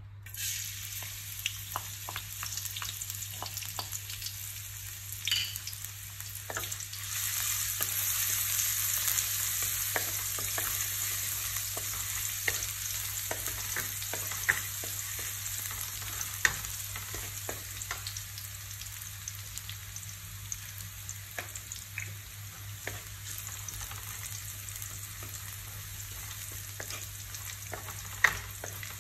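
Chopped green onion and aromatics sizzling in hot oil in a wok. The sizzle starts suddenly as they go in, swells for a few seconds, then settles to a steady fry. Throughout, light taps and scrapes come from a wooden spatula stirring them against the pan.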